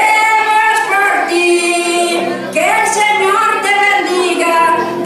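Singing voices, mostly female, holding and sliding between sung notes.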